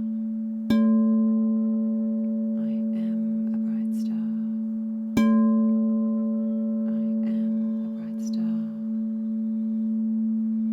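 Singing bowl struck twice, once about a second in and again about five seconds in. Each strike rings on in a long, steady hum with several overtones above the low tone.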